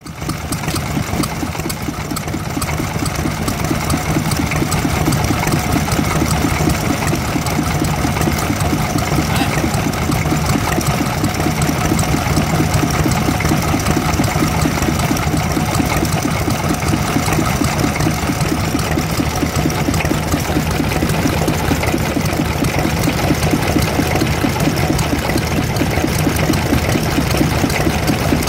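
Vintage stationary engine running steadily with a rapid, even beat.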